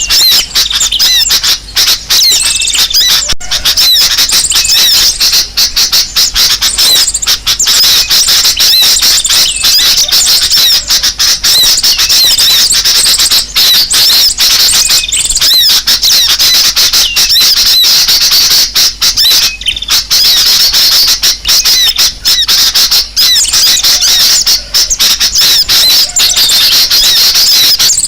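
Bird-lure recording of many small birds chattering and squeaking at once in a dense, loud, unbroken high-pitched chorus of rapid chips and squeaks. It is the noisy 'ribut' lure sound meant to draw all kinds of birds in.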